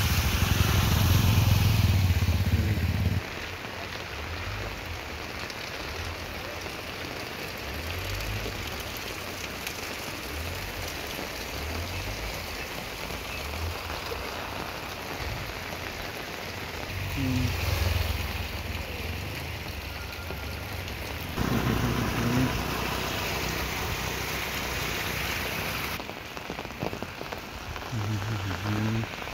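Steady rain falling on a flooded road. A motorcycle runs and splashes through the floodwater for the first three seconds, then stops abruptly.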